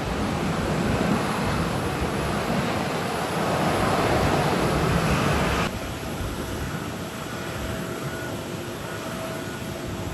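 Airbus A330-300 airliner landing, its jet engine noise mixed with loud wind rush. About five and a half seconds in, this cuts off abruptly to quieter, more distant jet noise with a faint steady whine from a Boeing 777-300ER on approach.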